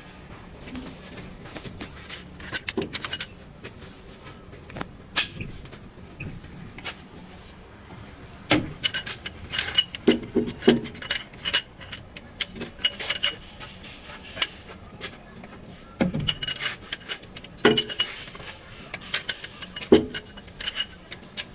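Metal hand tools and engine parts clinking and knocking together at irregular intervals, some strikes ringing briefly, as an engine is being taken apart.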